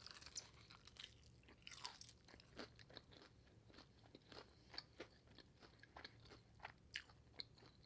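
Faint mouth sounds of someone chewing crispy fried chicken wings: soft, irregular crunches and clicks, a few a second.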